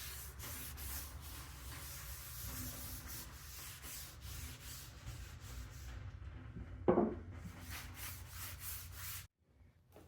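Repeated rubbing and scraping strokes, with one sharper knock about seven seconds in; the sound cuts off abruptly near the end.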